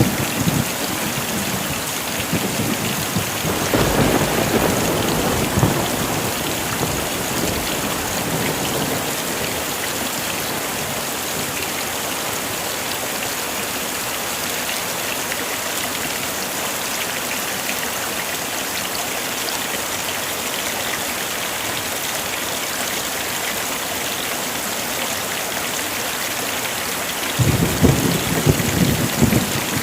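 Heavy rain falling steadily, with a roll of thunder about four seconds in and another near the end.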